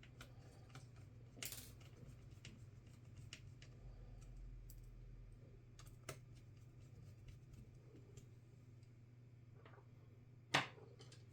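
Faint, scattered light clicks and taps of laptop parts and small tools being handled during disassembly, with one louder clack about ten and a half seconds in, over a low steady hum.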